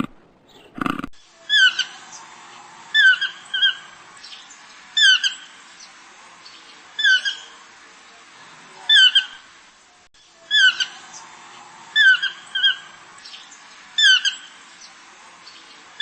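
Toucan calling: a short yelping note repeated about every one and a half to two seconds, some calls coming in quick pairs, over a faint steady background.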